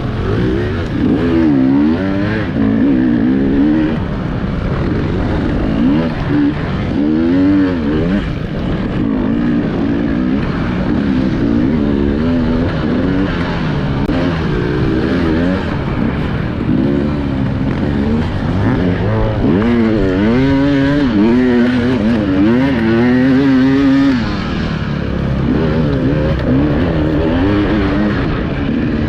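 Enduro motorcycle engine revving up and down over and over, its pitch rising and falling in quick swoops.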